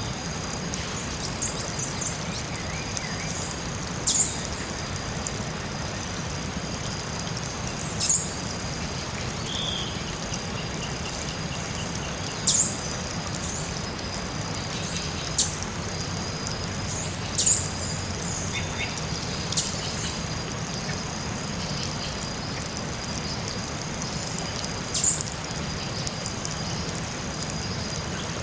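Tropical forest soundscape: a bird gives a short, sharp, high call every few seconds, about seven times, over a steady high-pitched drone and a low, even rumble.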